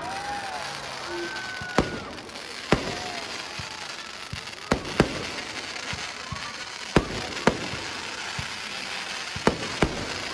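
Aerial fireworks display: about eight sharp bangs at irregular intervals, some in quick pairs, over a steady crackle of bursting shells.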